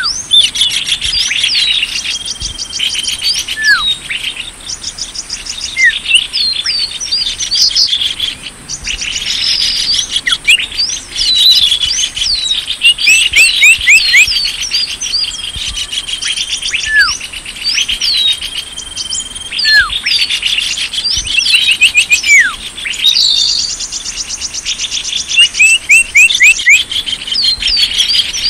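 Bird-lure recording of small songbirds calling: dense chirps and rapid buzzy trills, with short whistles sliding down in pitch every few seconds, over a steady high buzz.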